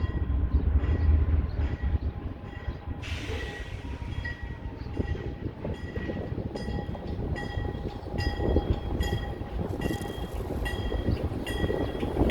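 Pan Am Southern freight train passing: a heavy low rumble at first, then the cars rolling by with a hiss and a short metallic ringing that repeats evenly, somewhat less than twice a second.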